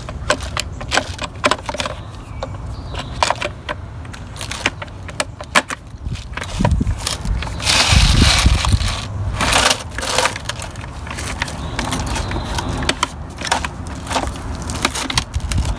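Plastic parts of a Dyson DC24 vacuum's ball housing being handled and slid back into place: scattered clicks and knocks, with a louder scraping stretch about eight seconds in.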